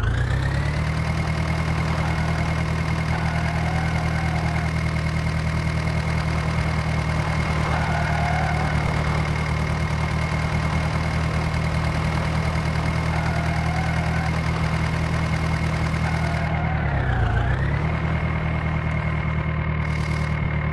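Swaraj tractor's diesel engine revved up and held at steady high revs, with a brief drop and rise in revs about 17 seconds in.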